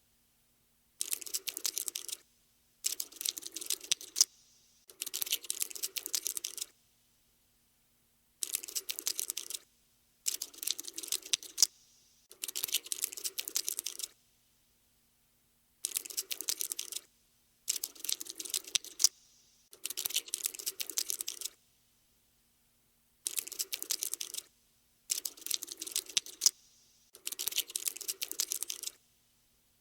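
Skittering sound effect of a cockroach scuttling: repeated bursts of rapid tiny clicks, each lasting about a second, about a dozen of them with short silent gaps in between.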